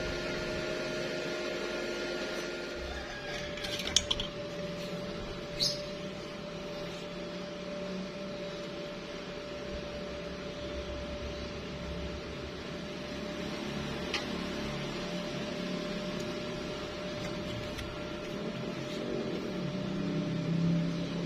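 A steady mechanical hum with a held whine, broken by a few sharp clicks, two of them about four and five and a half seconds in.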